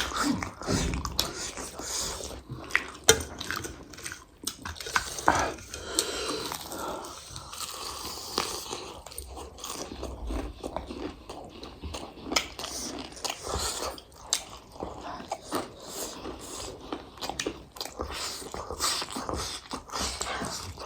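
People chewing and biting spicy food, with many short wet clicks and smacks of the mouth all the way through.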